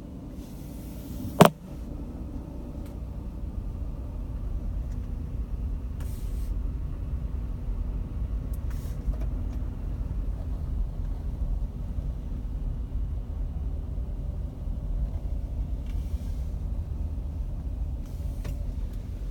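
A steady low rumble, with one sharp click about a second and a half in.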